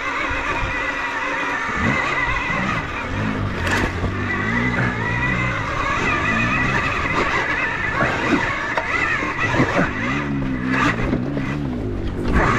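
Dirt bike engine revving up and down repeatedly as the bike claws up a slippery rock face, with a few knocks and clatters of the bike on rock.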